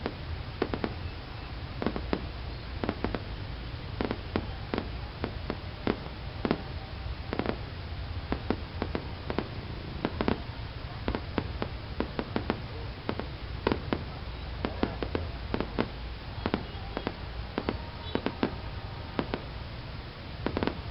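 Fireworks going off: a rapid, irregular run of sharp pops and bangs, several a second, over a steady low rumble.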